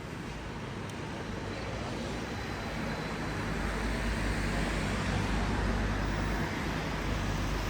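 Road traffic: a motor vehicle's engine rumble and tyre noise growing steadily louder as it approaches.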